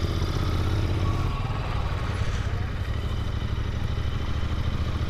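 Royal Enfield GT650's 648 cc parallel-twin engine running at low speed as the motorcycle rolls slowly along, a steady low rumble heard from the rider's position.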